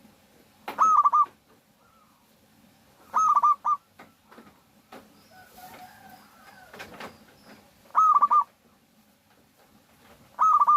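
Zebra dove (perkutut) cooing. The call comes four times, every few seconds, each a quick run of clipped notes. Fainter bird calls sound in between.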